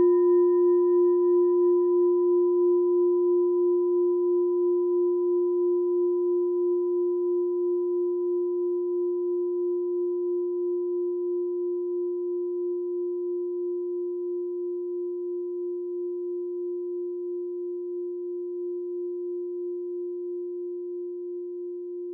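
A meditation bell ringing out after a single strike: one steady low tone with a slow, even wavering in loudness, fading gradually, its higher overtones dying away within the first couple of seconds.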